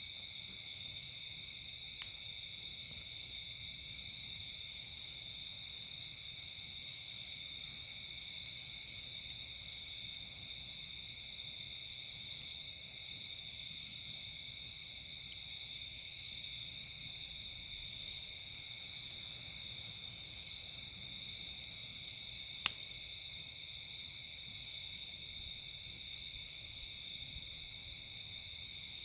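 Steady chorus of crickets trilling without a break. A faint click about two seconds in and one sharp pop of the campfire crackling about three-quarters of the way through.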